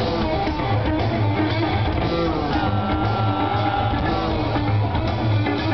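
Rock band playing live, with plucked bass guitar and electric guitar over a steady pulsing low end, with some sliding notes.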